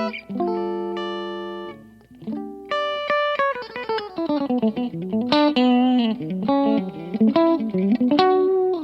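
PRS Modern Eagle V electric guitar played solo. Held notes ring for the first two seconds or so, then a fast run of single notes dips down and climbs back up, with wavering, vibrato-shaken notes midway through the run.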